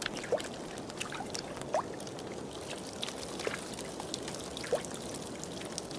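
Water trickling and gurgling steadily, with scattered small clicks and short rising bubbly plops.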